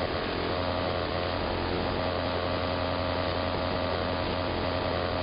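Electrical interference on an AM radio: a steady buzzing, hissing noise with a low hum and a fixed tone, like a buzzsaw cutting wood. It covers the entire AM band, and the listener believes it comes from some electromechanical machine rather than a radio-frequency device.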